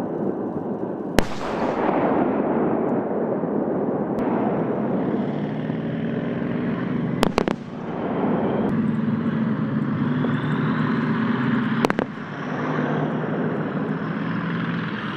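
Main battle tank in action: a steady rumbling din with a droning engine hum, broken by three sharp gunfire cracks, about a second in, a doubled one near the middle, and one near the end.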